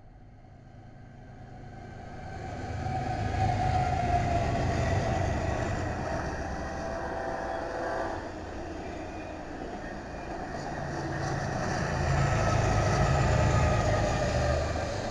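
Freight train passing: BNSF diesel locomotives go by with a low engine rumble that builds over the first few seconds. Double-stack container cars then roll past more quietly, and a second group of diesel locomotives mid-train brings the rumble back up near the end.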